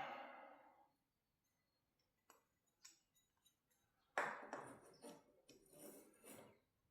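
Faint metal clicks, then about four seconds in a sudden scraping, clattering of metal on metal as a garage door cable drum is slid back onto the steel torsion bar.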